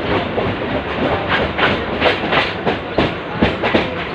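A moving Indian Railways train carriage running steadily, with irregular clanks and knocks from the wheels and couplings over the rails.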